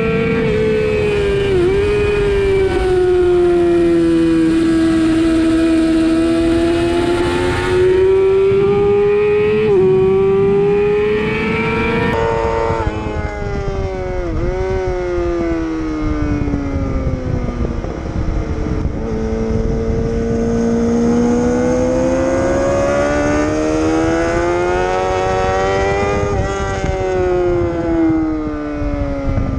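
Sportbike engine at high revs on a track lap, its pitch rising and falling through the corners and straights, with brief quick dips in pitch at gear changes, over heavy wind noise.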